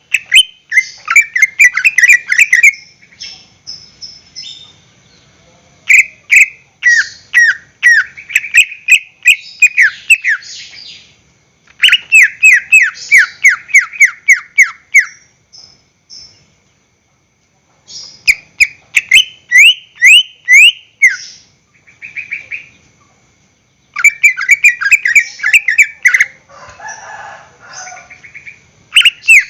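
Greater green leafbird (cucak ijo) singing loudly in phrases of rapid, repeated, falling chirps, about five phrases of a few seconds each, with short pauses between.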